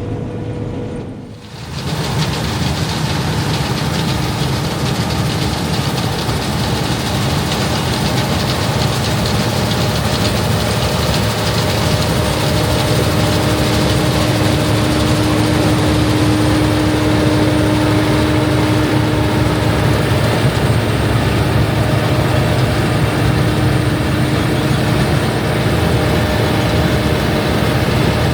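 Large diesel farm machinery running steadily, with a continuous low engine sound carrying a few steady tones. The sound dips briefly about a second and a half in, then holds steady.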